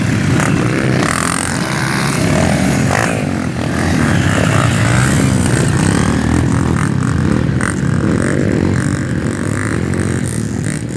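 Motorcycle engines revving, their pitch rising and falling again and again as the throttle is worked, with more than one engine running at once.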